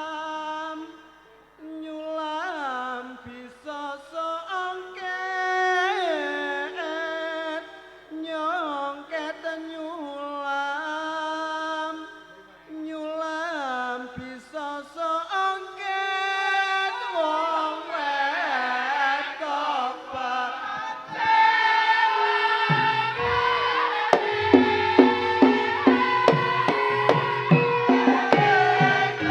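Live Javanese gending, the opening piece of a babadan performance: a solo voice sings a slow, ornamented line with sliding pitches. About 22 s in, the full ensemble comes in with steady rhythmic drumming and low struck notes under the voice.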